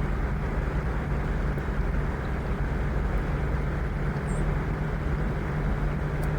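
Steady rushing of a trout river's flowing water, with one short high bird chirp about four seconds in.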